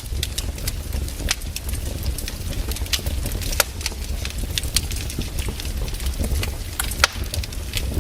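Firewood burning, crackling with irregular sharp pops over a low steady rumble.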